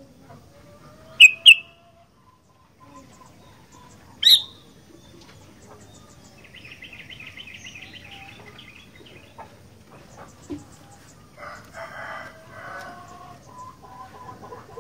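Sooty-headed bulbul calling: two loud, short whistled notes a little over a second in and a single sharp note about four seconds in, followed by a softer chattering run. Lower, fainter bird calls come in near the end.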